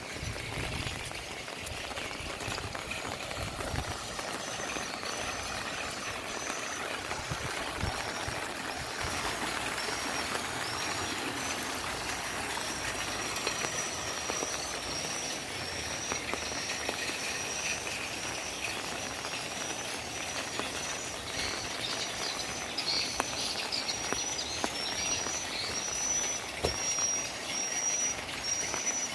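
Heavy rain falling steadily, with a high chirping call repeated about once or twice a second above it, growing louder near the end.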